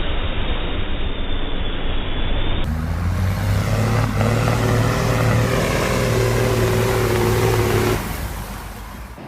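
Heavy truck engine running hard under load. The sound cuts to a different, clearer recording about two and a half seconds in, where the engine holds a steady pitch, and it fades near the end.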